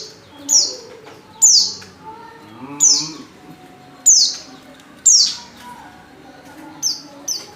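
Female white-eye (pleci) calling in breeding condition: short, high chirps, each sliding down in pitch, repeated about eight times at uneven intervals of roughly half a second to a second and a half. This is the call that draws males.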